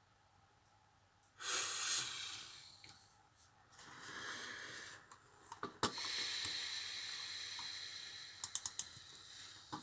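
Computer mouse clicks, one near the middle and a quick run of about four near the end, between swells of hissing noise close to the microphone.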